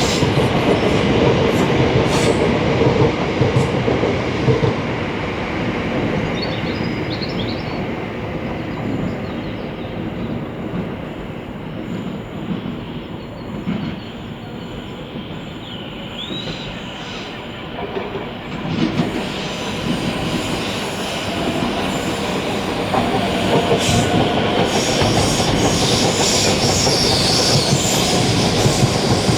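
Electric multiple-unit trains (Bombardier Aventra Class 720 and Class 710 sets) running past on the main line, wheels clattering over the track with some wheel squeal. The sound eases off in the middle and builds again in the second half as another train comes through.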